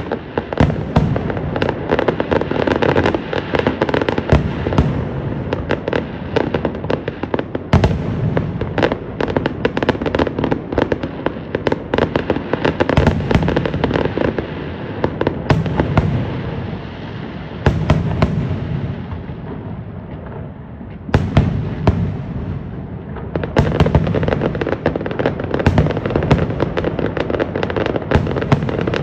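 Aerial fireworks going off in dense volleys: many overlapping bangs and crackles, easing to a brief lull about two-thirds of the way through, then a loud bang and fresh rapid volleys.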